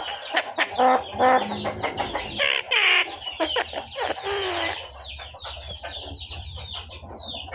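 Talking pet bird chattering: a quick run of short chirps, clicks and squawks, with a loud harsh screech about two and a half seconds in, then fainter chirps.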